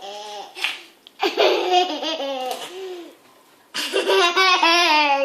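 High-pitched laughter in three bouts, the last the loudest and most sustained.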